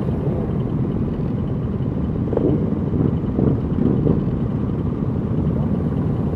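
Motorcycle engines running with a dense low rumble. Between about two and four seconds in, the engine note briefly rises a few times.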